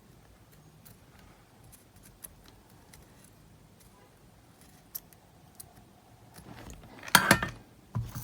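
Faint clicks and light metallic taps of small tools working on the cassette player's circuit board while the motor's contacts are desoldered, with a louder short clatter about seven seconds in and another just after.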